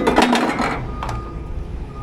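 Rapid metallic rattling and clattering for under a second, over a steady idling engine that carries on alone afterwards.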